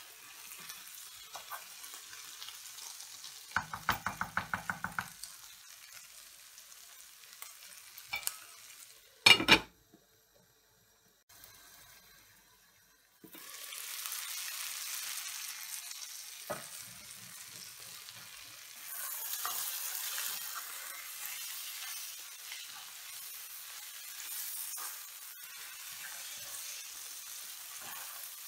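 Sliced onions and peppers sizzling in a non-stick frying pan while being stirred with a wooden spoon. About four seconds in comes a quick run of taps, and near nine seconds a single loud clack, followed by a few seconds of near silence; after that the sizzling returns louder, with the lid off the pan.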